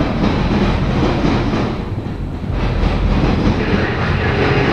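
Freight train cars rolling past: steady noise of steel wheels on the rails, swelling and easing as the cars go by.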